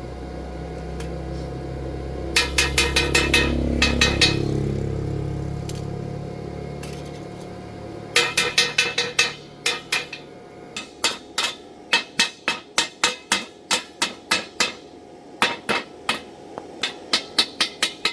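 Hammering: runs of quick, sharp hammer blows, several a second, in short bursts with brief pauses between. A low steady hum sits under the first few seconds and fades out before the second run of blows begins.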